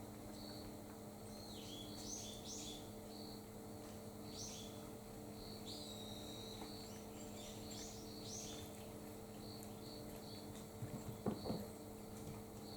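Small birds chirping outside in short, scattered calls, over a faint high chirp that repeats about twice a second. A brief clatter sounds near the end.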